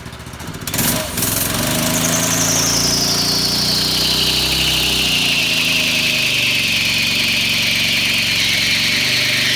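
Mini bike's small gas engine revving up about a second in and held at high revs for a burnout, the spinning rear tyre giving a high squeal that falls slowly in pitch. The engine drops off just after the end.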